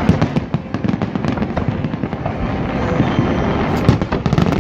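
Aerial fireworks going off in a dense, continuous barrage of overlapping bangs and crackles.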